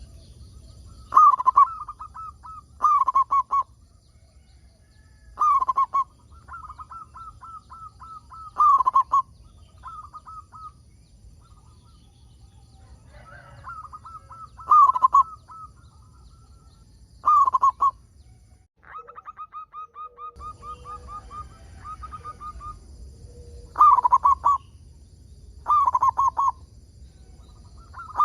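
Zebra doves (perkutut) cooing. Rapid runs of pulsed coos are broken every few seconds by louder, short bursts of calling.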